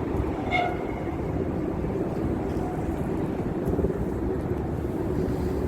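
Steady running rumble of the Roosevelt Island Tramway's aerial cable car in motion, with a brief high squeal about half a second in.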